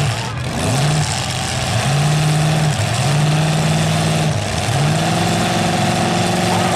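Demolition derby cars' engines revving hard again and again. The pitch rises quickly and holds high each time, about four times, over a loud steady noise.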